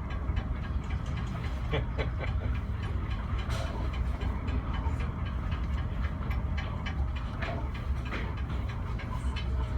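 Heavy, steady low rumble of storm wind buffeting the microphone over the ferry's running noise, with scattered short knocks and clatters, a few of them sharper, about two seconds in and again near the end.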